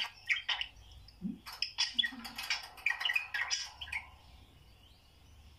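Budgerigars chirping and chattering in rapid short, high calls, thinning out to a few faint chirps after about four seconds.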